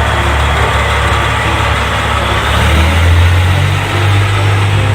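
Heavy truck engine running with a steady low rumble, its pitch rising a little about three seconds in.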